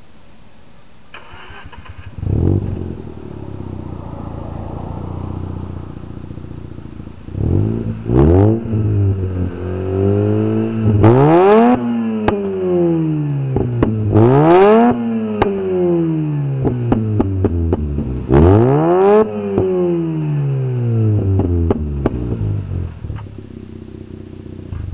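Mazda RX-8's two-rotor rotary engine heard through a custom 9-inch glasspack exhaust with one inlet and two outlets. It starts about two seconds in and idles, then is revved four times to between 4,000 and 6,000 rpm, each rev rising and falling in pitch, before settling back to idle.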